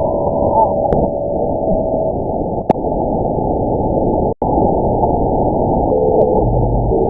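Shortwave radio static heard through a narrow-band WebSDR receiver, a dense hiss with steady whistling tones from carriers in the passband. The audio cuts out for an instant about four seconds in.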